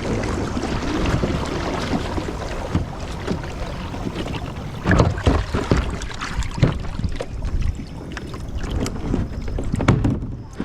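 Kayak moving on the water: a steady wash of water noise along the hull, with scattered knocks and clunks.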